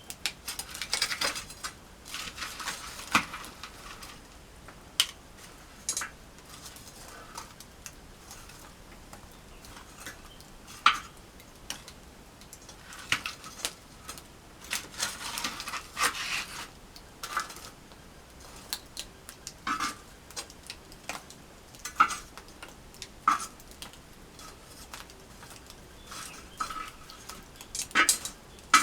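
Metal cookware being handled: irregular clinks and short scrapes of a utensil against a pan or pot, one every second or two, with a longer stretch of scraping around the middle.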